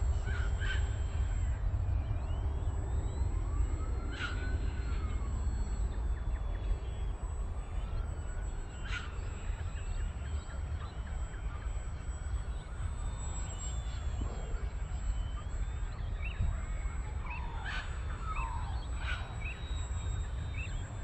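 Birds calling on and off, with a cluster of short chirps near the end, over a steady low rumble.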